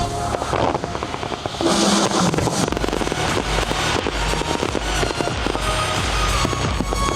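Fireworks bursting and crackling in rapid, dense succession over the show's musical soundtrack.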